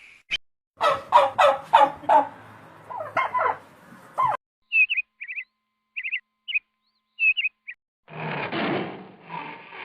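Bird calls: a rapid rattling series of calls in the first few seconds, then a string of short high chirps, and a rougher burst of sound near the end.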